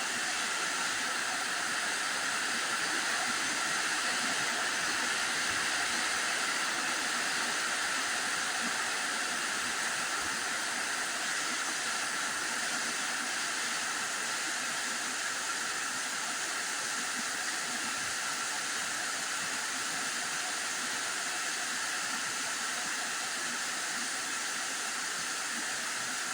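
Heavy rain pouring down, a steady even hiss that goes on without a break.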